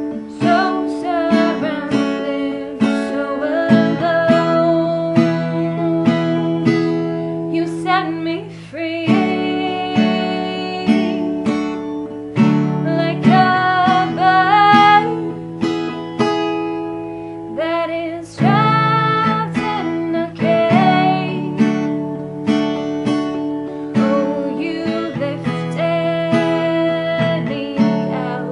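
A woman singing an original worship song to her own strummed acoustic guitar, the chords strummed in a steady rhythm under her held sung lines.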